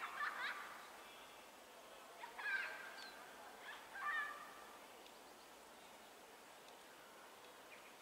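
Birds calling: a few short, harsh, bending calls come in three bursts, around the start, about two and a half seconds in and about four seconds in, then only faint background hum remains.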